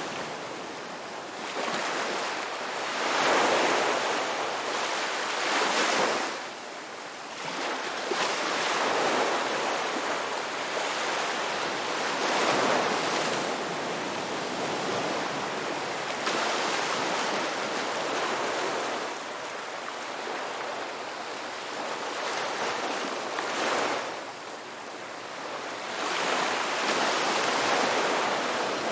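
Ocean waves breaking and washing up on a beach, each surge swelling and falling away every three to five seconds.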